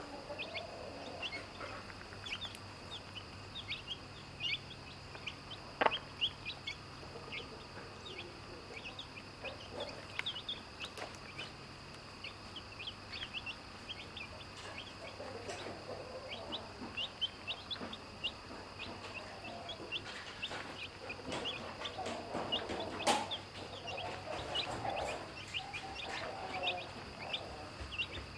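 Domestic chicks peeping continuously with short high chirps while a mother hen clucks low in spells, mostly in the second half, with a couple of sharp clicks.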